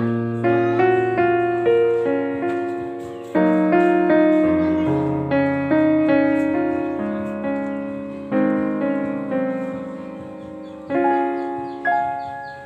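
Background piano music: a slow, gentle melody of single struck notes over chords, each note ringing and fading away.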